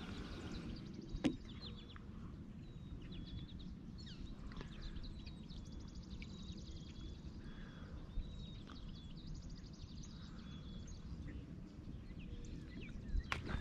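Several birds chirping and singing, with repeated fast trills, over a steady low rumble. There is a single sharp click about a second in.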